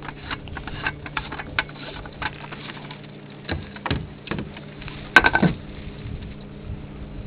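Irregular clicks and knocks of something being handled, with one sharp, loud click about five seconds in that rings briefly, over a steady low hum.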